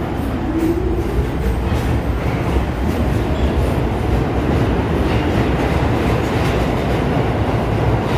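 New York City subway train running through the station, a loud steady rumble of wheels on rail with clicks over the rail joints.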